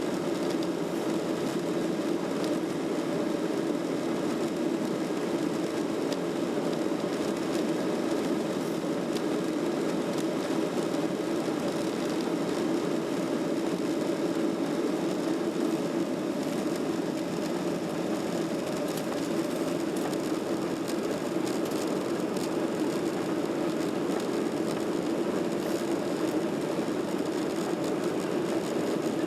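Boeing 737-800 with CFM56-7B jet engines giving a steady, even rumble that neither builds nor fades.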